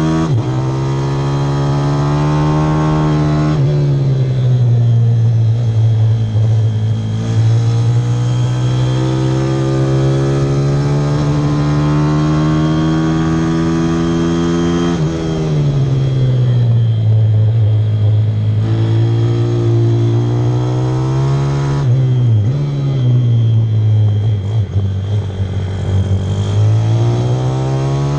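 Single-cylinder pit bike engine under hard throttle on track. Its pitch climbs slowly, then drops sharply as the rider backs off or changes gear, about four, fifteen and twenty-two seconds in.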